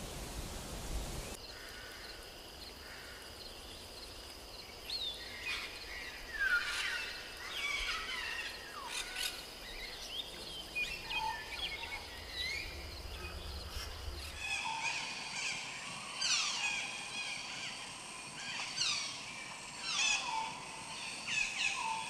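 Forest ambience with wild birds calling: many short chirps and whistles that slide down in pitch, over a faint steady hiss. The background changes abruptly a couple of times.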